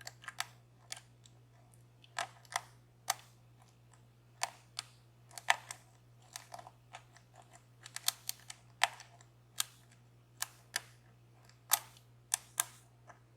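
Irregular sharp clicks and taps of a lock pick and tension wrench working the pins of a DOM Plura dimple lock, a couple of clicks a second, with a low steady hum underneath.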